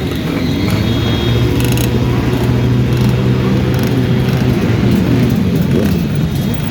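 Many motorcycle engines running together, their pitches rising and falling as they rev and pass. One engine holds a steady note for a few seconds in the middle.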